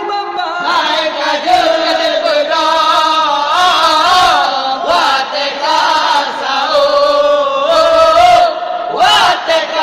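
A young man's voice singing a melismatic chant in long, wavering held notes: a sung call to wake people for sahur.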